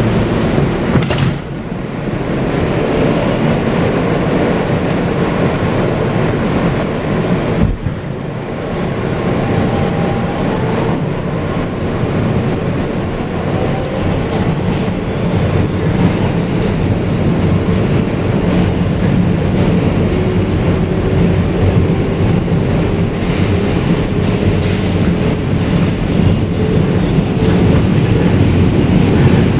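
Kawasaki R160B subway car with Siemens propulsion running at speed between stations, heard from inside the car: a steady rumble of wheels on track with a faint motor hum. The noise briefly drops out twice near the start.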